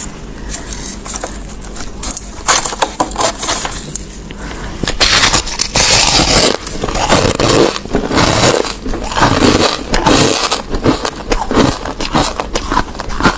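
Crushed ice being bitten and chewed close to the microphone: dense, crackly crunching that is lighter for the first couple of seconds and grows heavier and louder from about five seconds in.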